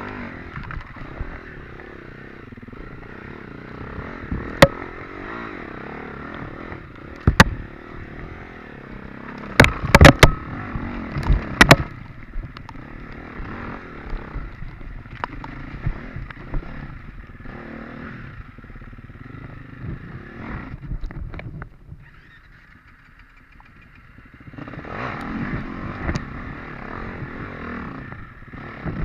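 Off-road dirt bike engine running under changing throttle, with sharp knocks and clatters, the loudest a cluster about ten seconds in. A little past twenty seconds the engine drops away briefly before picking up again.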